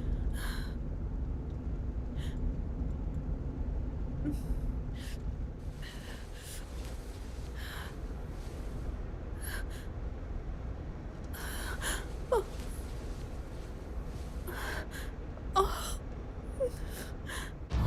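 A person breathing in short, sharp gasps, again and again, with a few faint whimpers, over a steady low rumble.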